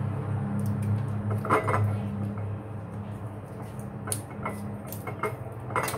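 Kitchen utensil clinks: a spoon and dishes knocking and scraping against one another as sauce ingredients are spooned out, with a handful of short sharp clinks, the loudest about a second and a half in and near the end, over a steady low hum.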